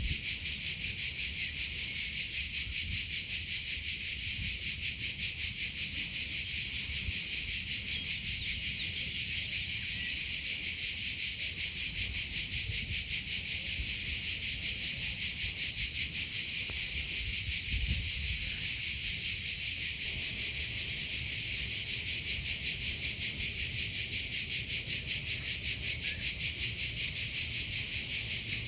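Cricket chirping without a break: a steady, high-pitched, rapidly pulsing trill.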